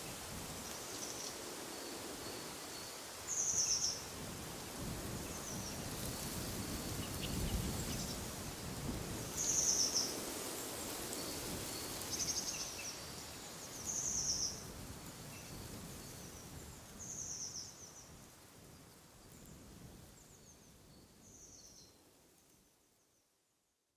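A bird giving short, high calls every few seconds over a steady rush of wind in the trees. The whole sound fades out near the end.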